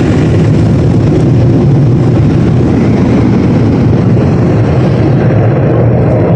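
Automatic car wash machinery running with a loud, steady roar, heard from inside the truck's cab.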